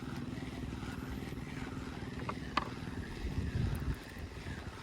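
A small fishing boat's engine running steadily with an even low throb, and a couple of short clicks midway.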